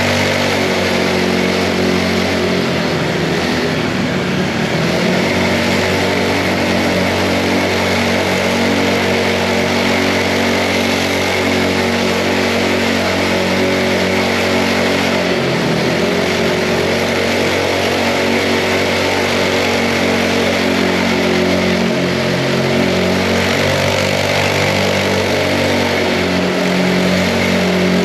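Mini bike's small engine running steadily while riding, its pitch dipping and rising briefly a few seconds in and again about halfway through as the throttle eases and opens.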